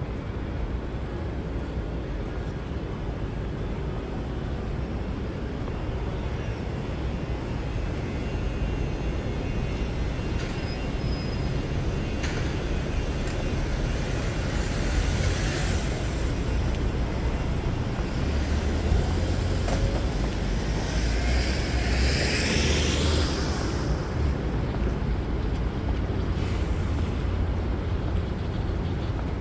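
City street traffic: a steady low rumble of engines and tyres, swelling as vehicles pass close, with two louder tyre swooshes about halfway through and again about two-thirds of the way in.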